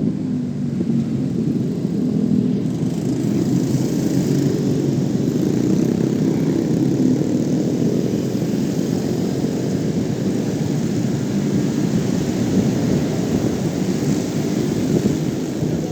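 Motorcycle riding on the road: steady engine drone mixed with wind rumble on the microphone.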